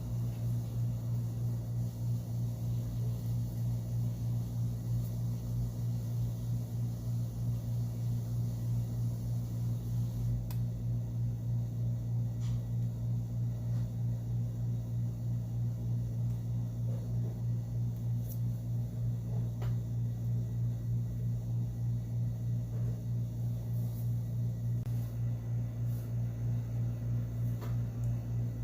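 A steady low hum with an even pulsing, about twice a second, and a few faint clicks.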